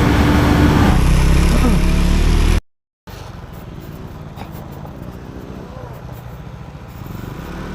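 KTM Duke 390 motorcycle riding at a steady pace, its engine note steady under a loud low wind rumble; it cuts off abruptly about two and a half seconds in, then gives way to a much quieter, steady low engine and road rumble.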